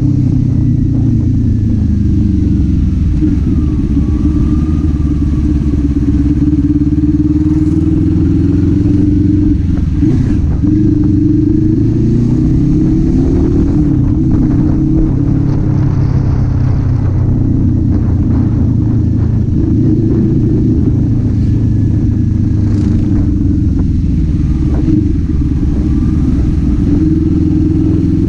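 Kawasaki Z400 parallel-twin engine and exhaust running under way, the revs rising and falling several times as the rider works the throttle and gears.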